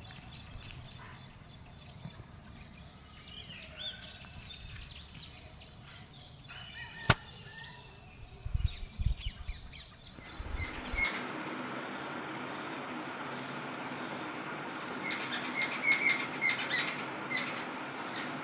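Small birds chirping in many short, high chirps, with a sharp click about seven seconds in and a few low thumps just after. About ten seconds in a steady hiss comes up, and more chirps sound over it.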